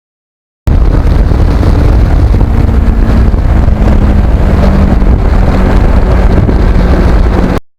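Heavy wind rumble on the microphone of a moving Kawasaki Ninja motorcycle, with the engine's steady drone underneath. It starts abruptly just under a second in and cuts off just before the end.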